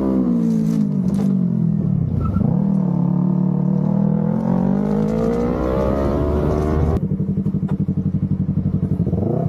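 Motorcycle engine during a chase. Its pitch drops as it slows over the first couple of seconds, then climbs again as it accelerates. About seven seconds in, the sound switches abruptly to a lower, steady pulsing engine note.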